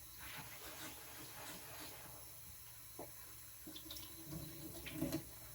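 Faint water splashing and trickling as a loaded whetstone is rinsed clean of metal swarf, with a few light clicks near the end.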